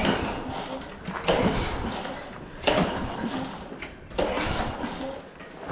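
Walk-behind lawn mower's small engine being pull-started: four recoil-cord pulls about a second and a half apart, each cranking it briefly. It does not catch and run.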